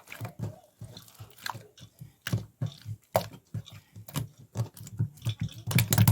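A person chewing food, with a quick, irregular run of crunches and smacks.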